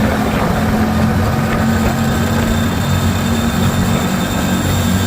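Keeway V-Cruise 125 motorcycle engine running at steady revs. A thin high whine sits over it from about two seconds in.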